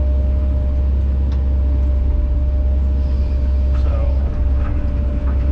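Kobelco SK210 excavator's diesel engine running steadily, a deep unbroken drone with a faint steady whine, with a few faint clicks in the middle.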